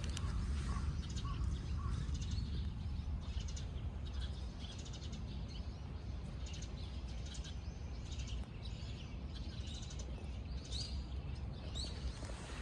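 Small birds chirping and twittering again and again, with a few short rising whistled notes near the end, over a steady low rumble.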